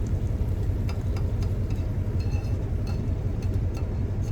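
Truck engine idling with a steady low rumble, with a few light clicks of a utensil against the pan in the first couple of seconds.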